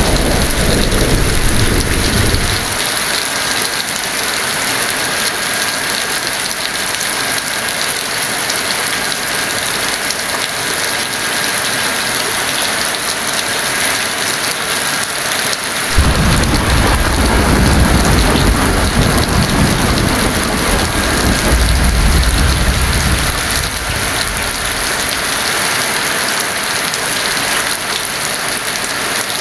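Heavy rain falling steadily, with thunder: a rumble dies away in the first couple of seconds, and a new roll of thunder breaks in suddenly about halfway through and rumbles for several seconds before fading.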